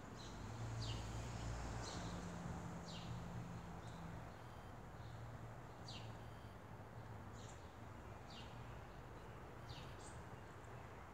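A songbird calling short, high chirps that fall in pitch, repeated irregularly about once a second. Beneath them is a low steady hum, louder in the first few seconds.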